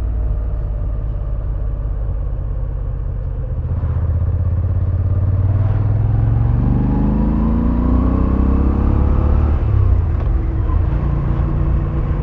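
Moto Guzzi V7 850's air-cooled transverse V-twin running on the road. From about four seconds in the revs climb steadily, then fall sharply just before ten seconds and settle again.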